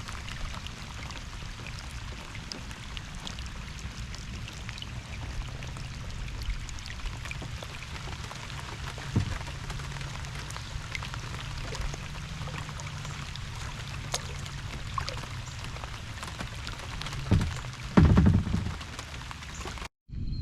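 Steady rain falling, a continuous hiss flecked with the ticks of single drops striking nearby. A few louder low thumps come near the end.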